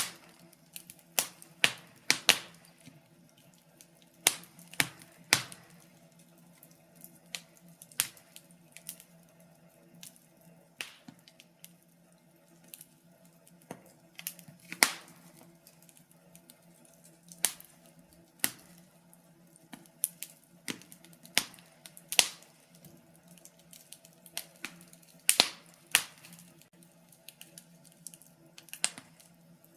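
Wood fire crackling in a fireplace: irregular sharp pops and snaps, some louder than others, with quiet gaps between them.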